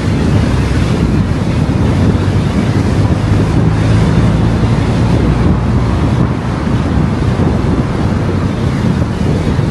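Steady wind and road noise from a car driving at speed, a loud rumble with a faint low engine hum in it.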